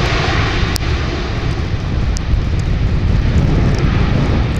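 Airliner engines running with a steady, heavy low rumble, mixed with wind buffeting the microphone.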